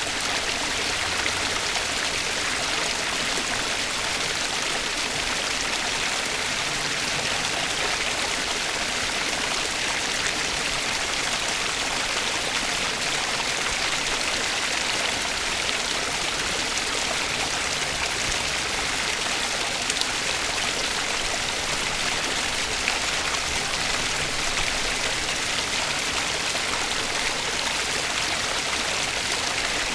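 Flowing water of a stream, a steady, even hiss and rush.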